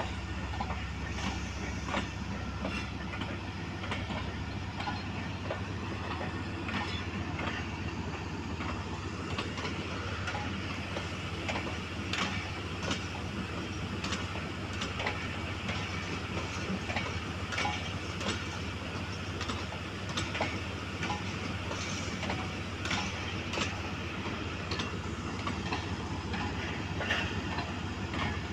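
Railway passenger coaches rolling slowly through station trackwork, their wheels clicking and clacking irregularly over rail joints and points, over a steady low diesel locomotive hum.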